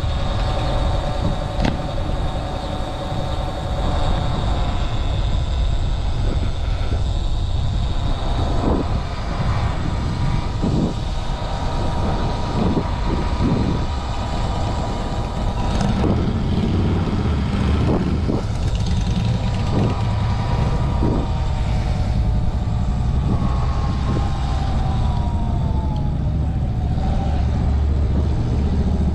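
Wind rumbling on the microphone while riding a Sur-Ron X electric dirt bike, with the electric motor's whine shifting in pitch and sliding down near the end as the bike slows.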